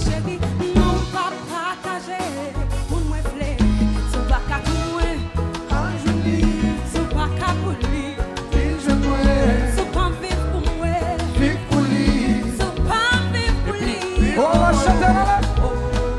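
Live band music with singing over strong bass and drums, in a Latin-Caribbean dance style.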